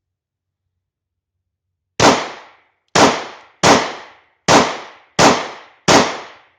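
German P.08 Luger 9mm pistol fired six times in quick succession, starting about two seconds in, the shots a little under a second apart, each sharp report fading briefly.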